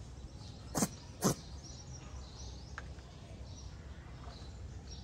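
Two short, sharp sounds about half a second apart near the start, over faint bird chirping and a low background hum.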